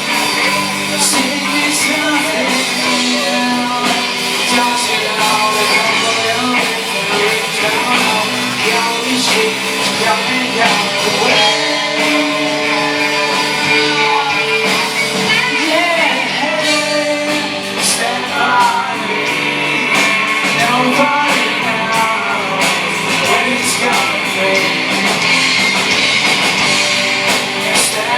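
A rock band playing live with a lead singer, guitars and drums going steadily throughout.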